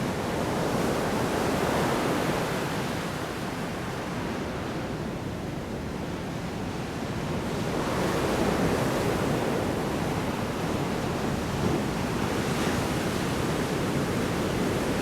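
Large storm waves breaking and washing onto a shore, a continuous roar of surf that swells and eases slowly, building again about eight seconds in.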